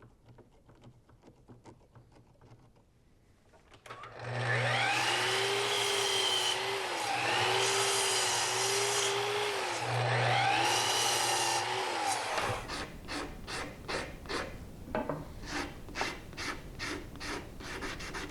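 An electric power tool starts about four seconds in and runs for about eight seconds, its motor pitch dipping and recovering three times as it bites into wood, then stops. Short, rhythmic scraping strokes of hand sanding on wood follow.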